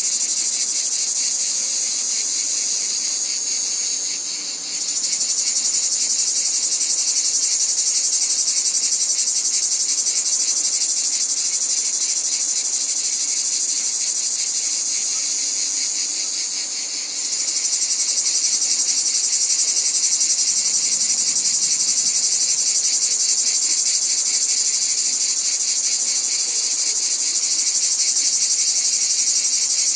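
Dense chorus of insects: a steady, high-pitched shrill with a fast pulsing texture, which dips briefly and swells back about four seconds in and again about seventeen seconds in.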